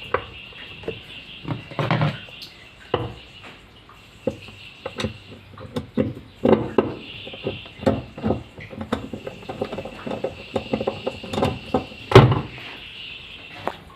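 Irregular clicks, knocks and clatter of washing-machine parts being handled and fitted back together during reassembly, with a louder knock about twelve seconds in.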